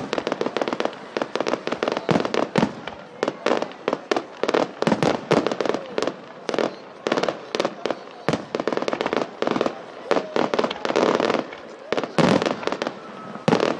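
Fireworks display: a rapid, continuous run of bangs and crackling reports, several a second, with louder clusters of bursts.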